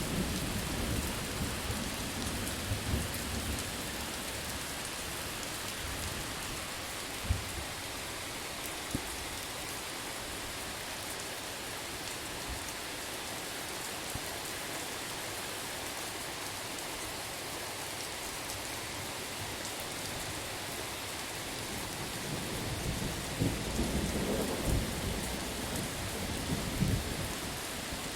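Steady heavy rain with thunder: a low rumble fading away in the first few seconds, a couple of sharp cracks near the middle, and thunder rumbling up again near the end.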